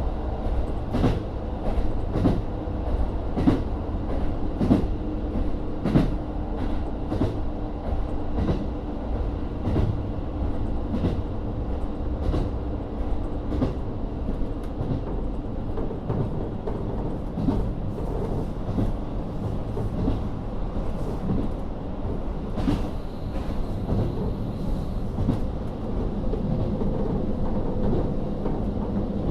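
Running sound of a KiHa 40 diesel railcar with its DMF13HZB diesel engine under way: a steady low rumble, and wheels clicking over rail joints about once a second. Near the end the engine's note changes.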